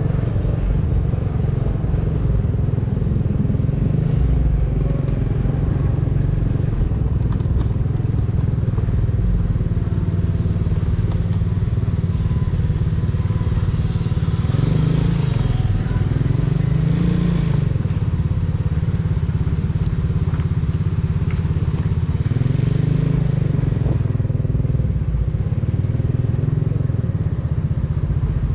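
Exhaust of a 125 cc motorcycle under way, running steadily with its note rising and falling a few times around the middle and again near the end as the throttle is worked.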